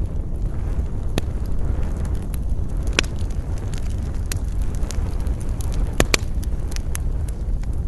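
Campfire crackling, with scattered sharp pops of burning wood over a steady low rumble of wind. The loudest pops come about three seconds in and as a close pair about six seconds in.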